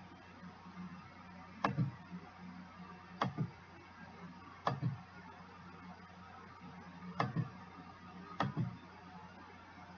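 Computer mouse clicking: five quick pairs of clicks spaced a second or two apart, over a faint steady low hum.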